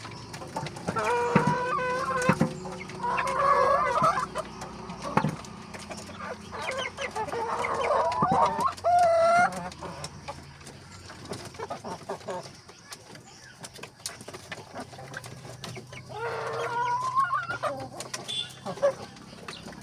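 Local-breed domestic chickens clucking, with a rooster crowing. Loud calls come in several spells, about a second in, again around seven to nine seconds, and once more near sixteen seconds, with quieter clucking between.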